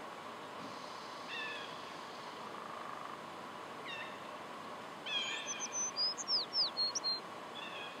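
A songbird sings a quick run of high, falling notes about five seconds in. A few shorter, fainter bird calls come before and after it.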